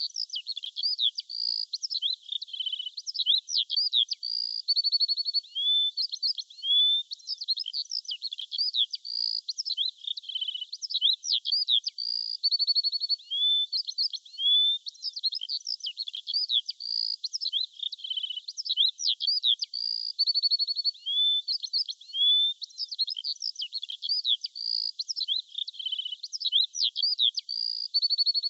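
Songbirds singing: a dense run of quick chirps, short trills and rising whistled notes, all high-pitched. The same sequence of phrases comes round about every eight seconds, as in a looped recording.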